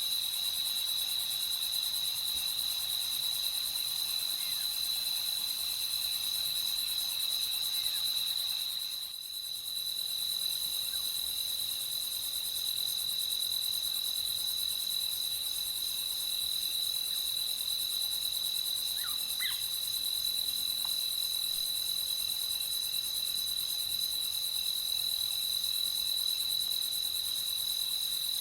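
Crickets chirring in a steady, continuous high-pitched trill of a night ambience. The trill drops out briefly about a third of the way through, and a few faint short calls sound about two-thirds of the way in.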